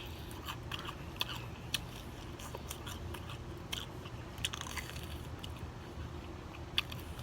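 Close-miked chewing and smacking of crispy fried chicken: irregular crunches and wet mouth clicks, over a steady low background rumble.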